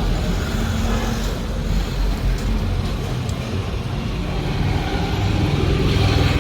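Steady low rumble of motor vehicles running, swelling slightly near the end.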